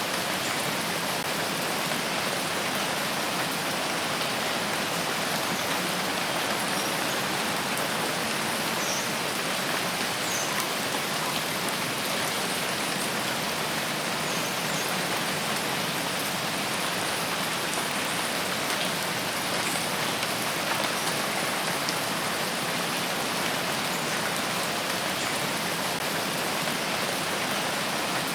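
Steady rain falling in a forest: an even hiss that does not let up.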